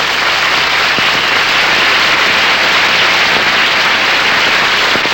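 Studio audience applauding, a loud, steady wash of clapping.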